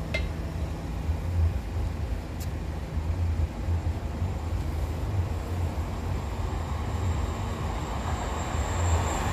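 A train running past a level crossing: a steady low rumble of engine and wheels, with a thin high whine joining about seven seconds in.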